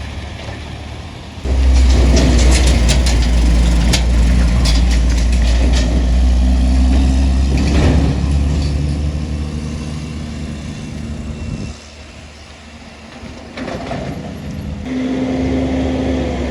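A heavy truck's engine passing close with a loud, low rumble that starts suddenly about a second and a half in and fades away after about ten seconds, followed near the end by another vehicle's engine drawing near.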